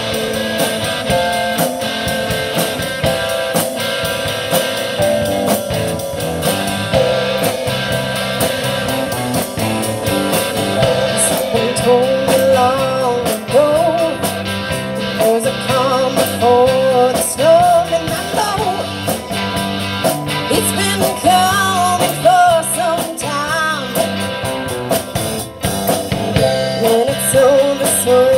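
Live rock band playing, with drum kit, bass and guitar. About eleven seconds in, a lead melody line that bends up and down in pitch comes in over the band.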